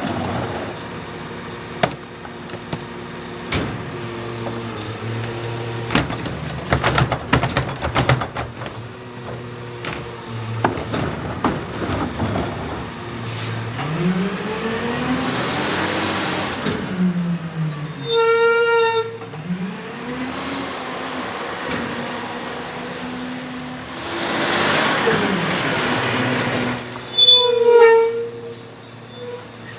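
Rear-load garbage truck at work: the Battle Motors chassis's diesel idling under clanks and knocks as bins are tipped into the Pac-Tech hopper. The engine then revs up and down twice as the packer runs, with air hissing and short squeals about midway and again near the end.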